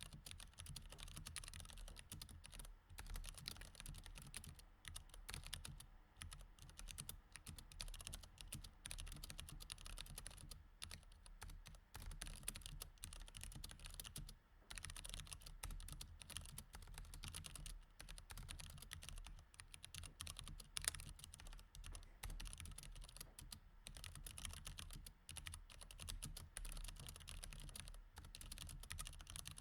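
Continuous fast typing on a mechanical keyboard with Cherry MX Red switches: a dense, quiet clatter of key presses with a few short pauses and one sharper keystroke about two-thirds of the way through.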